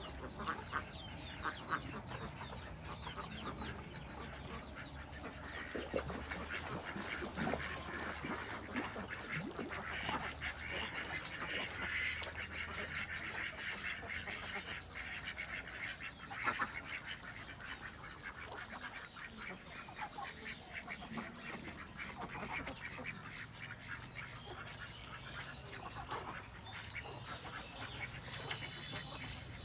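A flock of birds calling, many short overlapping calls with no let-up.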